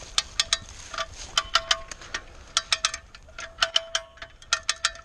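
Hand-operated come-along winch being ratcheted: quick clusters of three or four sharp metallic clicks with a ringing tone, about one cluster a second, as the handle is worked to pull the log.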